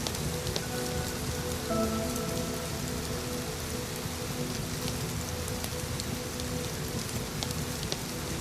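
Steady rain falling, with scattered small sharp crackles like a fireplace. Underneath is a soft ambient music pad of held low tones.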